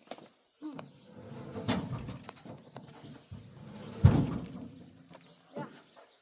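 Logs being heaved by hand onto a load: scattered wooden knocks and scraping, with one heavy thud about four seconds in as a log lands.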